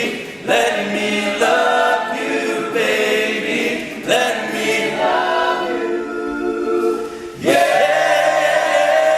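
All-male a cappella vocal group singing close harmony chords without recognisable words, moving through several chord changes and then holding a long final chord from about seven and a half seconds in.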